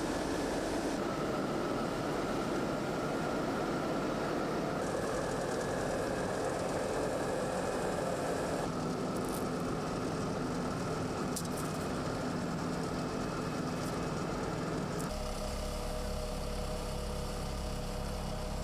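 Engines of road-repair machinery running steadily. The sound changes abruptly several times, about one, five, nine and fifteen seconds in.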